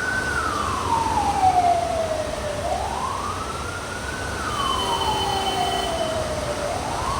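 Ambulance siren wailing, its pitch climbing quickly and falling slowly about every three and a half seconds, over a steady hiss of heavy rain and traffic.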